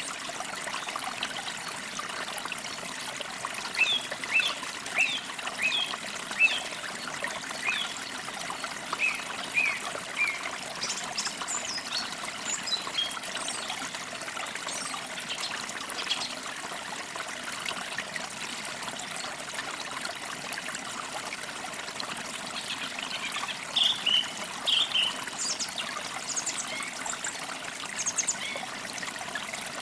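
A small stream trickling steadily, with songbirds chirping over it in short runs of quick high notes, one run in the first third and another near the end.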